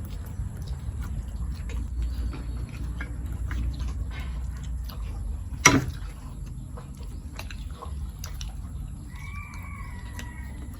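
Eating sounds at a table: scattered small clicks and smacks of chewing and handling food, with one sharp clack a little past the middle, over a steady low background rumble. A faint short pitched call comes near the end.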